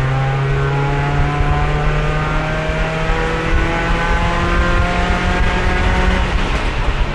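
Onboard sound of a race car's engine pulling hard in fourth gear, the only gear its failing transmission will hold. The pitch climbs slowly as speed builds. About six seconds in, the steady note breaks off as the throttle eases.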